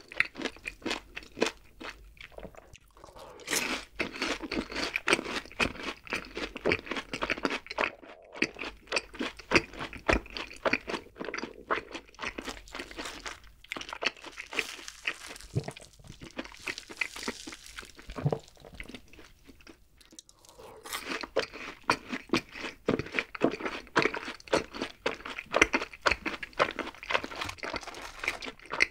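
Close-miked chewing of crispy fried food: dense, crackling crunches of the coating as it is bitten and chewed. There are two short lulls, about two seconds in and about twenty seconds in.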